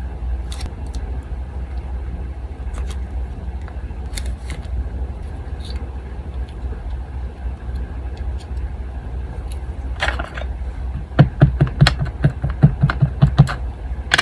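Hands working with paper at a desk: small clicks and a brief paper rustle, then a quick run of about a dozen taps on the tabletop, about five a second, over the steady low hum of an electric fan.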